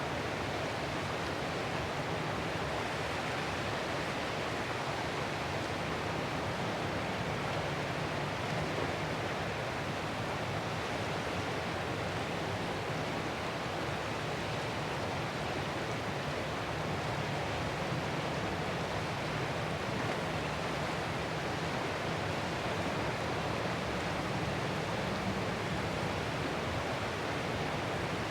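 Ocean surf as a steady, even rushing hiss, with no separate waves rising or breaking out of it.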